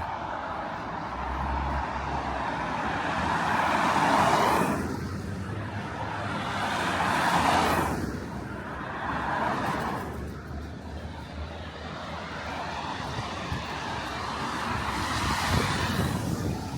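Several cars passing by one after another, their tyre noise swelling and then fading, about four times. Low wind rumble on the microphone underneath.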